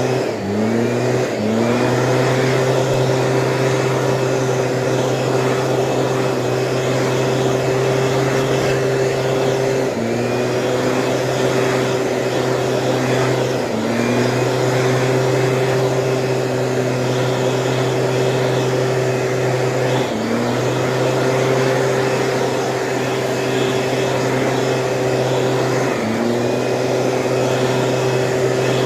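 Stihl two-stroke engine of a power weed sprayer running steadily at high speed. Several times its pitch drops briefly and climbs straight back as the throttle eases off and opens again.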